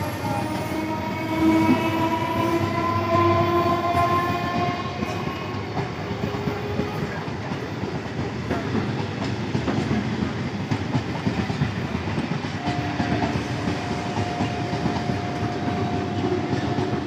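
Electric multiple-unit (EMU) local train pulling away, its wheels rumbling and clattering over the rail joints. Over the first several seconds its traction motors whine, rising slowly in pitch as the train picks up speed. A steady tone comes in about three-quarters of the way through.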